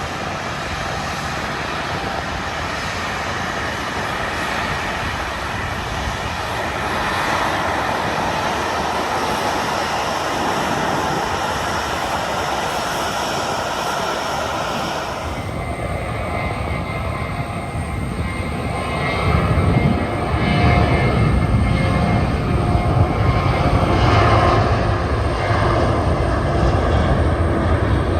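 Jet airliner's engines running, a steady rushing sound that slowly grows louder, with a heavier low rumble coming in about two-thirds of the way through.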